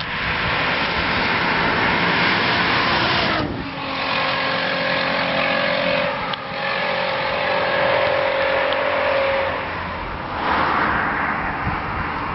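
VW Passat R36's 3.6-litre VR6 engine running through an aftermarket performance exhaust, revved in several loud stretches with short dips between them, a final short burst near the end.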